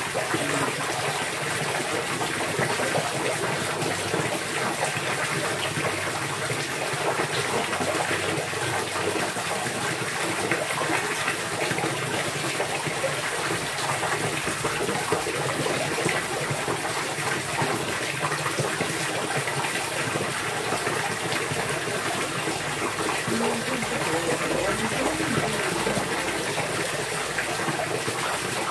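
Steady rush of flowing water, splashing without a break.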